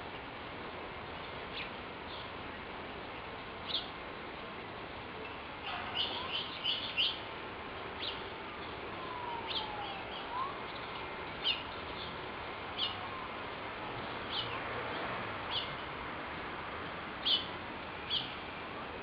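Small birds chirping: short, sharp, high chirps every second or two, with a quick run of them about six seconds in, over a steady outdoor hiss.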